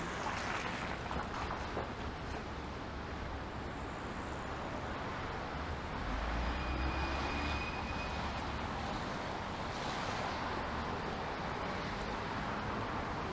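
City street traffic: a steady noise of passing vehicles, with a heavier low rumble about six seconds in as a larger vehicle goes by.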